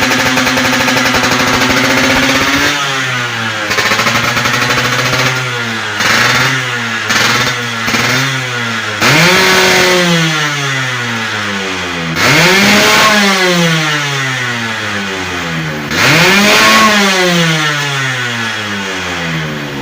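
Suzuki Satria Hiu two-stroke motorcycle engine running through an AHM roadrace exhaust, held at raised revs for a few seconds, then blipped several times in quick succession. Three longer revs follow, each climbing in pitch and falling back to idle.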